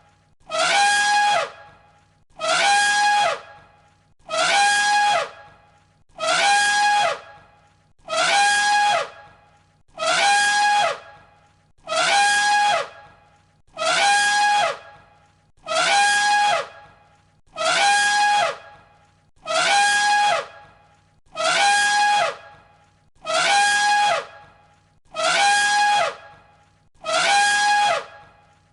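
An elephant's trumpet call, the same call looped again and again: about one blast every two seconds, each a brief blare that slides down in pitch as it ends.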